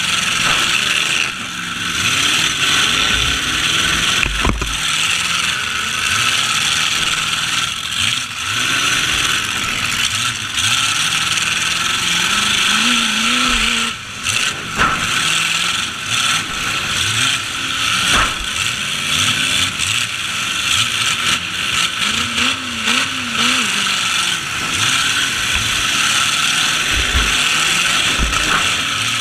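Demolition derby trucks' engines revving up and down under a steady, loud mechanical clatter, with a few sharp crash impacts, one about four seconds in and others near the middle.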